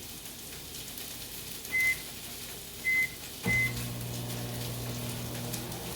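Microwave oven keypad beeping three times as it is set, then the microwave starting up, its steady hum running on once the oven is heating.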